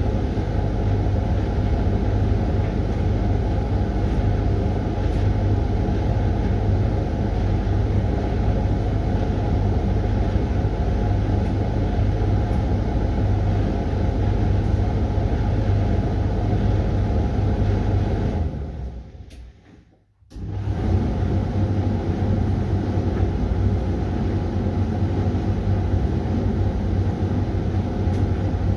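Hoover washing machine running its Refresh 20 cycle, a steady loud rumble with a deep hum. About two-thirds of the way through the sound dies away to near silence, then cuts back in suddenly at full level.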